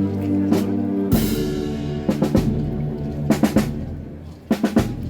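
Processional band music: sustained wind chords over snare and bass drum strikes, a Holy Week marching band playing behind a palio.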